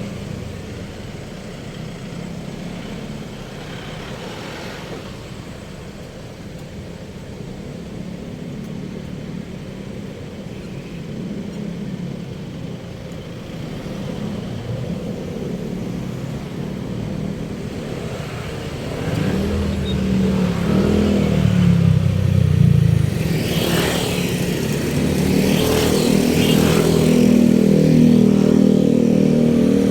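Road traffic with a steady rumble of engines, then a louder vehicle engine close by from about two-thirds of the way in, its pitch rising and falling as it revs.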